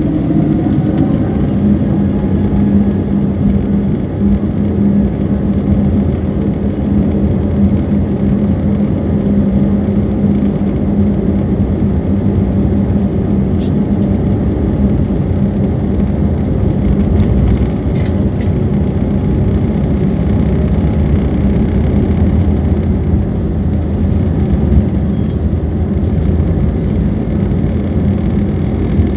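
Jet airliner's engines at takeoff power, heard from inside the cabin: a loud, steady rumble with a constant hum, and a tone that rises in the first second or so.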